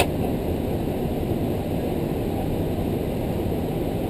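Steady rushing noise inside a Boeing 737-300 flight deck on final approach: airflow and engine noise heard through the cockpit, with a brief click at the start.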